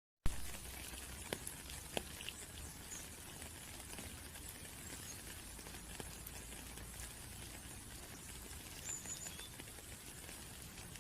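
Rain falling: a steady light hiss with scattered clicking drops. The sound cuts out for a split second right at the start, and a faint high chirp comes about nine seconds in.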